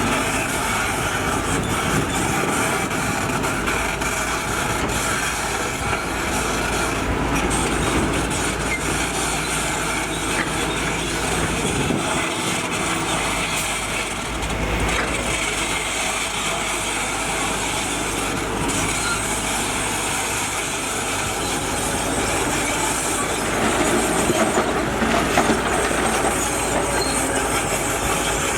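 Heavy earthmoving machinery working: a steady diesel engine sound with a continuous metallic clatter and squeal, typical of tracked machines moving.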